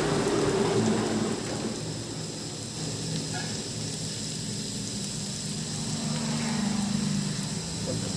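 Chicken masala frying in hot oil in a pan, a steady sizzling hiss.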